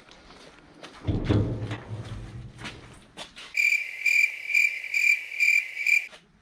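A low rumble about a second in, then a high electronic beep pulsing six times, about twice a second, for roughly two and a half seconds.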